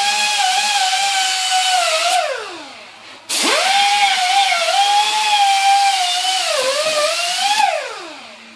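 Handheld electric power tool running at a steady high whine while cleaning the underside of a bench vise; it is let go and spins down about two seconds in, starts up again a second later, and spins down again near the end.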